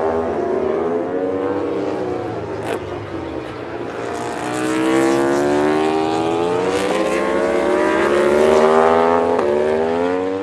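Racing motorcycle engines at high revs, the pitch sinking for a couple of seconds and then climbing steadily with short breaks as the gears change up.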